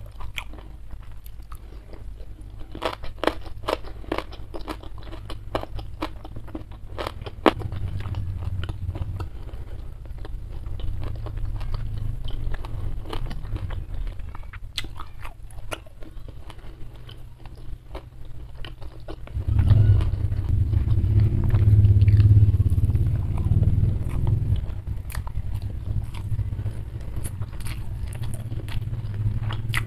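Close-miked chewing and wet mouth sounds of someone eating rice and side dishes with peanut sauce: many sharp, sticky clicks at first, then steady chewing that grows louder and deeper about two-thirds of the way through.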